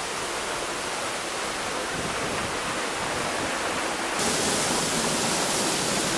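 Tunnel Falls, a large waterfall, making a steady rushing roar of falling water close by. About four seconds in it grows louder and brighter.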